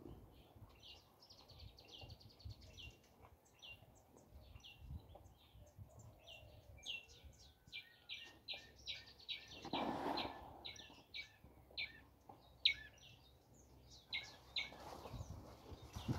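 Small birds chirping in rapid runs of short, high notes throughout, with a brief whoosh about ten seconds in.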